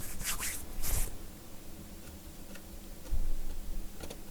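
Small handling noises on a repair bench: two short rustling scrapes in the first second, a dull knock about three seconds in, then a couple of light clicks near the end.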